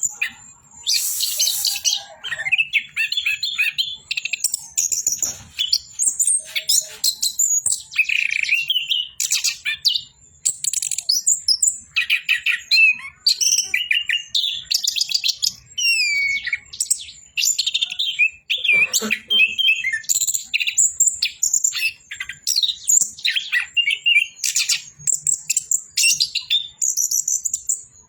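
Chestnut-capped thrush (anis kembang) singing nonstop: a long run of quick, varied phrases of rising and falling whistles and chattering notes with only brief gaps between them.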